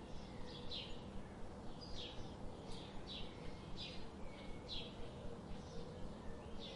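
Birds chirping: short, high chirps repeated about once or twice a second over a steady low background hum.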